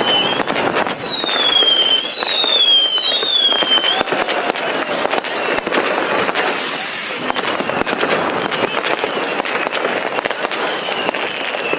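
Fireworks display: a dense run of bangs and crackles from bursting shells. Several falling whistles sound in the first few seconds, and there is a hissing burst about seven seconds in.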